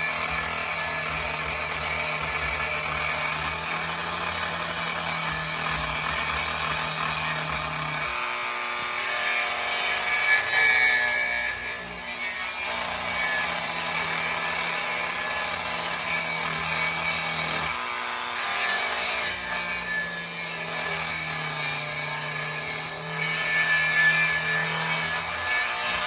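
Small electric power tool sanding a pine wood block, a steady motor hum under rough abrasive scraping. The motor hum drops out about eight seconds in and again near eighteen seconds, then comes back each time.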